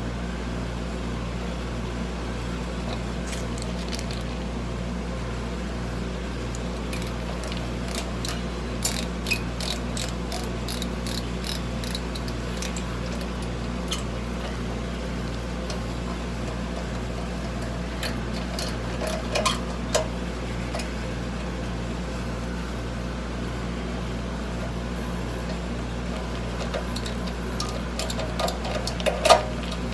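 Harbor Freight variable-speed scroll saw running steadily: a low motor hum with a faint even pulsing beat. Light clicks and rattles come about nine seconds in, around twenty seconds and near the end, as the refitted lower blade-holder access cover is tried for the clattering it made when loose.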